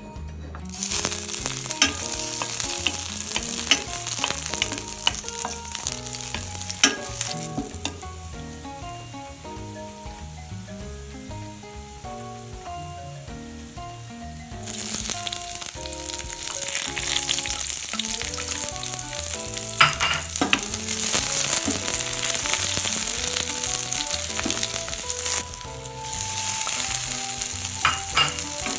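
Garlic hitting hot oil in a stainless steel pan about a second in, sizzling loudly and then settling to a quieter fry. About halfway through, sliced onions and other vegetables go in and the sizzling jumps louder, with stirring.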